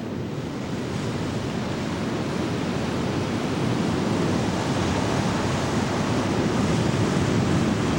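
Steady rushing of wind and ocean surf at sea, slowly growing louder.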